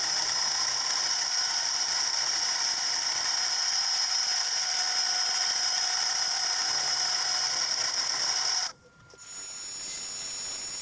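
A machine tool running steadily with a constant high whine. A little under nine seconds in it cuts off abruptly, and a different, quieter machining sound follows.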